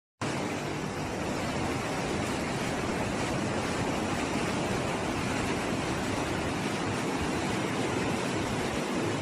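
Floodwater rushing steadily: an even, unbroken roar of moving water that starts just after a brief cut at the opening.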